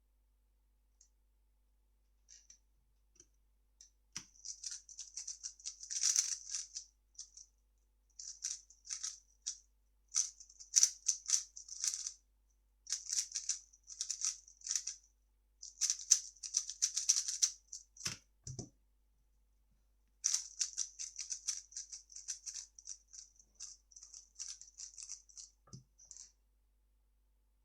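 A 3x3 speed cube being turned fast: rapid dense clicking and clacking of its layers in bursts of a few seconds with short pauses. There is one soft low thump just after the middle.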